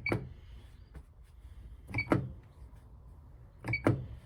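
Control panel of an Electrolux Quickwash commercial washing machine: three button presses, about two seconds apart, each a click with a short high beep, as the program list is stepped through in service mode.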